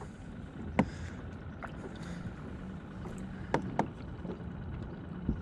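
Small bait-bucket aerator pump humming steadily, with a few light clicks and knocks.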